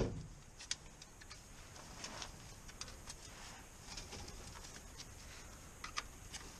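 A dull knock, then faint, scattered light clicks and ticks.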